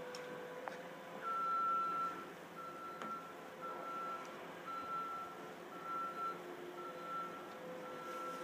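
Truck reversing alarm beeping, one steady tone repeating about once a second, starting about a second in, over a faint steady hum.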